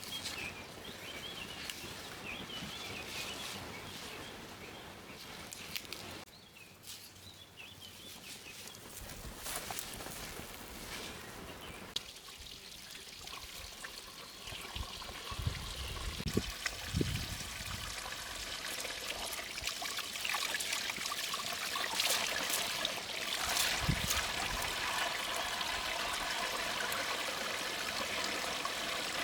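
Water pouring and trickling, growing louder about halfway through, with a few low thuds.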